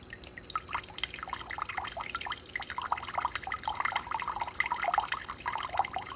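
Hot water trickling and dripping from a Sboly single-serve coffee maker's brew spout into a cup during its automatic self-cleaning cycle, a fast, uneven patter of drops with no pressure behind it.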